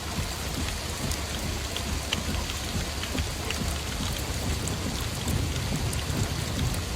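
Steady heavy rain, with many scattered drop ticks over an even hiss and a low rumble underneath.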